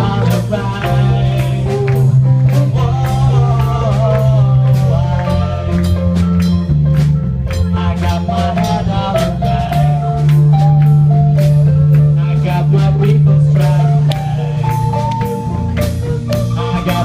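Live rock band playing: a drum kit keeps a steady beat under a held bass line and a moving melodic lead line.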